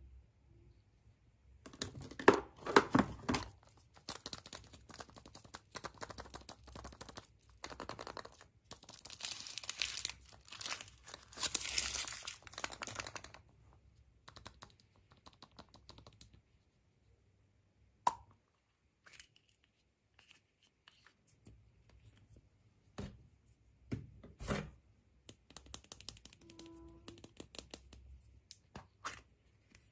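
Packaging being torn open and crinkled by hand: a dense run of ripping and rustling through the first half, then scattered light taps and clicks as items are handled.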